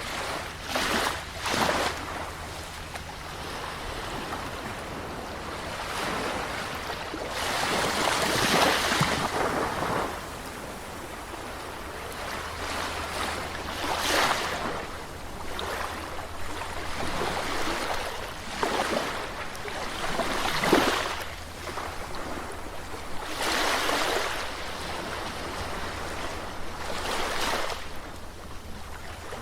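Sea waves breaking and washing on a shore, with a louder surge every few seconds over a steady hiss of surf.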